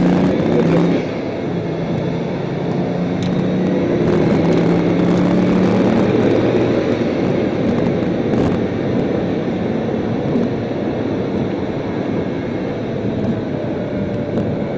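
Bugatti Veyron's quad-turbo W16 engine heard from inside the cabin while driving, its note rising gently over the first few seconds. After that, steady tyre and wind noise covers it.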